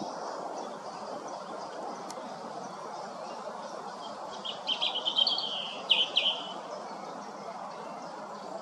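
European robin singing one short phrase of quick high notes, about two seconds long, around the middle, over a steady background hiss.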